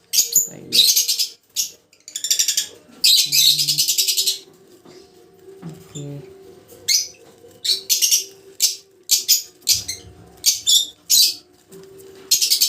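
African lovebird chick giving a series of harsh, raspy, high-pitched calls in short bursts while a closed ring is being worked onto its foot, the longest calls in the first few seconds and shorter ones later.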